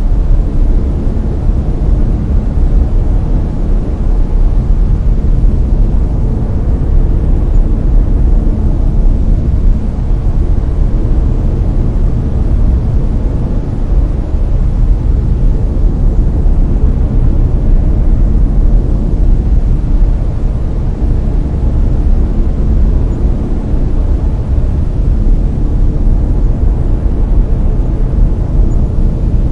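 Steady, loud brown noise: a deep, even rumbling hiss with no breaks or events, as used for sleep.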